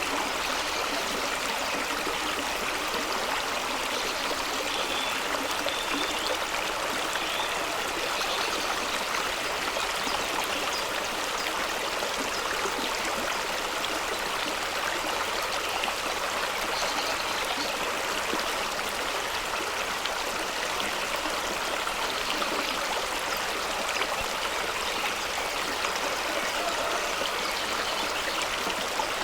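Fast-running stream pouring over rocks: a steady, even rush of water.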